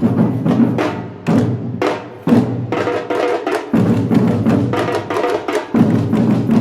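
Batucada samba drum group playing: deep bass drums under sharp, fast strokes on smaller drums. The deep drums drop out briefly several times.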